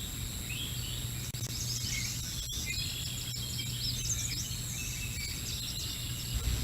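Small songbirds chirping and calling in quick, overlapping short notes, over a steady low hum from the outdoor camera microphone.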